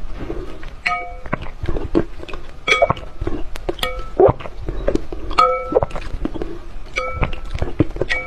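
Close-up wet eating sounds, lots of sharp smacks and clicks from chewing and slurping, over background music with ringing plucked notes every second or two.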